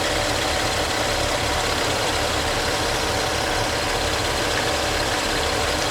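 Off-road 4x4 vehicle engine running steadily at low revs.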